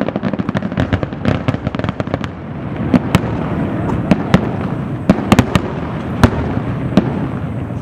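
Aerial fireworks display: a fast run of crackling pops for about the first two seconds, then a continuous rumble with about ten separate sharp bangs of shells bursting.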